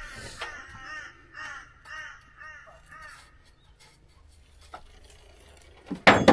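A crow cawing in a quick run of short calls, about two a second, for roughly three seconds. A loud sharp knock near the end.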